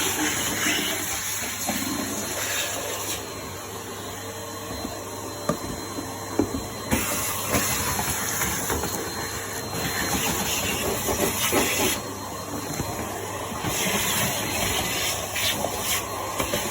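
Numatic Henry vacuum cleaner running with its crevice tool, a steady hum under a rushing suction hiss that changes tone every few seconds, with scattered small clicks and knocks.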